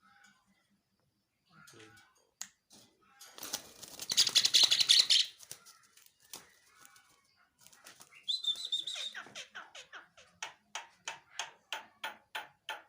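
A pet starling (jalak) flapping its wings in a loud rustling burst, then giving a shrill call, followed by a quick run of short sharp notes about three a second.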